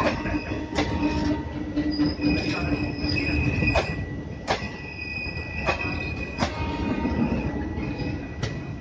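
Indian Railways passenger coaches rolling slowly past close alongside: irregular sharp clacks as the wheels cross rail joints, over a steady low rumble. A thin high squeal runs throughout, with louder intermittent squeals, and a low hum fades out a few seconds in.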